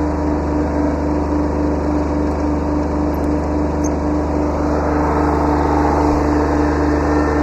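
Kubota B7100 tractor's small three-cylinder diesel engine running steadily under work, getting a little louder and brighter about two-thirds of the way through.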